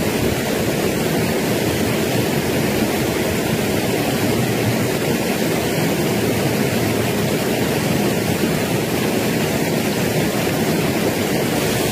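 Steady, loud rush of flowing water over rocks in a stream, an even noise that does not change.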